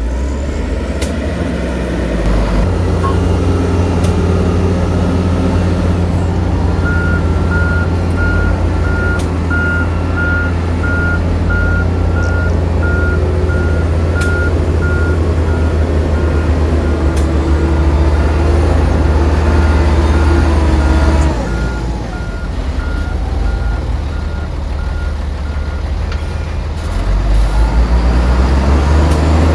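Heavy diesel machine running under load with a reversing alarm beeping at a steady, even pace from about a quarter of the way in almost to the end. The engine eases off about two-thirds through and picks up again near the end.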